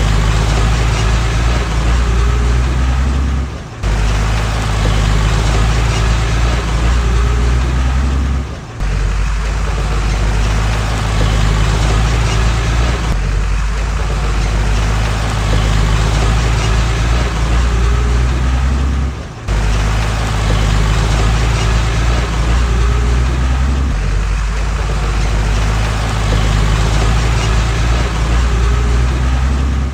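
Diesel engine of heavy earthmoving machinery running steadily with a deep, even drone. The sound drops out briefly three times, about 4, 9 and 19 seconds in.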